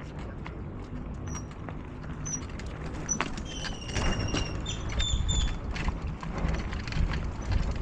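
Wind and rolling noise from riding a bicycle, a steady low rumble with scattered light clicks and rattles. A few short, high chirps come in around the middle.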